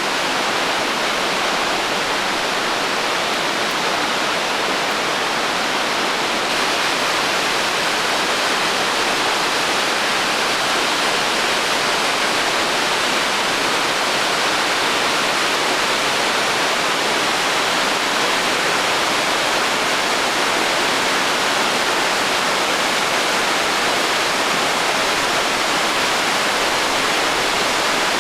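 Naena Falls, a large waterfall swollen with spring snowmelt, pouring with a loud, steady, even rush of falling water. It gets slightly louder about six seconds in.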